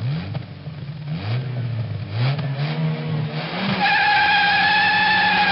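Car engine revving in several quick rising blips. About four seconds in, a loud steady tyre squeal takes over.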